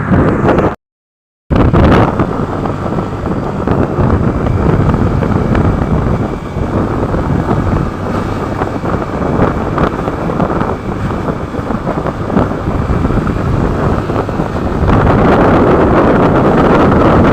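Wind buffeting the microphone on a moving motorcycle, over the rumble of the bike and the road. The sound drops out completely for under a second near the start, and the wind noise gets louder about fifteen seconds in.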